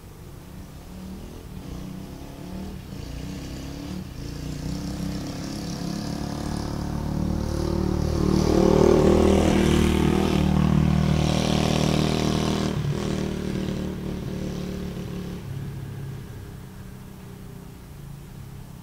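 Dirt bike engine growing louder as it comes closer, loudest near the middle, then fading as it moves away.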